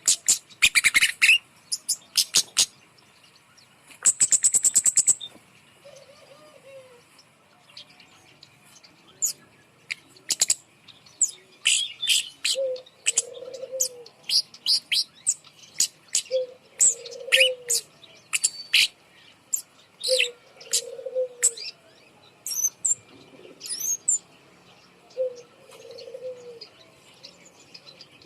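Kemade songbird calling: a run of sharp, high chirps and short trills, with a fast buzzy trill about four seconds in. Underneath, a low cooing note repeats every four seconds or so.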